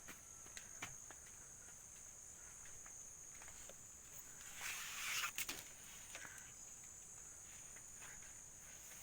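Insects chirping in a steady high-pitched drone, with a brief rustle of footsteps or brushed plants about halfway through.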